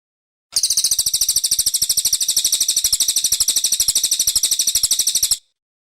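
Brown cililin songbird singing a rapid trill of high chirps, about a dozen a second, held for about five seconds. It starts and cuts off abruptly, as a looped bird-training recording does.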